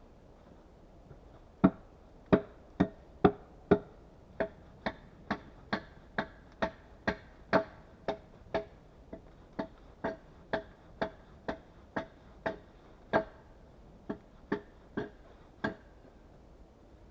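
A steady series of about thirty knocks of a tool on wood, roughly two a second, each with a short woody ring. The first few blows are the hardest.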